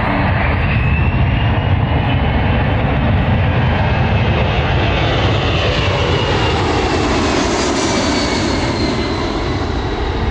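Boeing C-17 Globemaster III's four turbofan engines, loud and steady as the jet flies past, with a whine that glides in pitch and a hiss that grows brightest about three-quarters of the way through.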